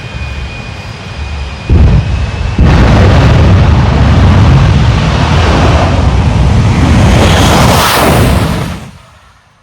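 A low rumble, then about two seconds in an abrupt, very loud roar that overloads the recording for about six seconds before dropping away sharply near the end.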